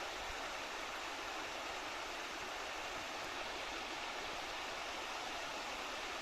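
Steady rushing of flowing water, a stream running.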